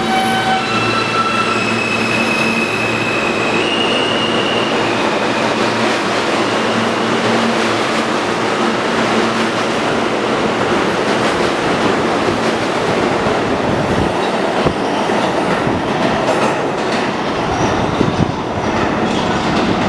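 R160 subway train pulling out: an electric whine that steps up in pitch over the first few seconds, then a steady, loud rumble of wheels on rail with scattered clicks and clatter in the second half.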